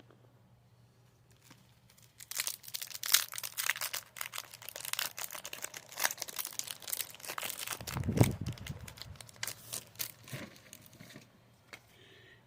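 Foil Pokémon trading-card booster pack wrapper being crinkled and torn open: a dense run of crackling that starts about two seconds in and dies away near the end, with a dull thump partway through.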